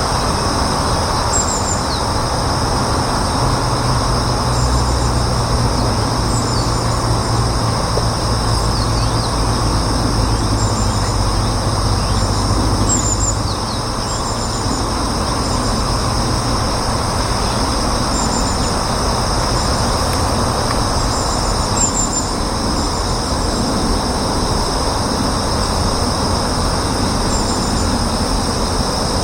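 Steady outdoor background: a low mechanical rumble like distant traffic, heavier in the first half and easing about halfway through. Over it, insects trill steadily at a high pitch, and short high chirps come again and again.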